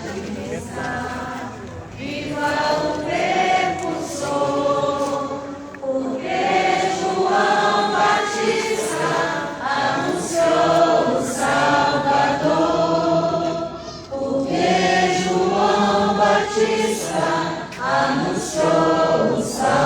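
A congregation singing a religious hymn together, in sung phrases with brief pauses for breath between them.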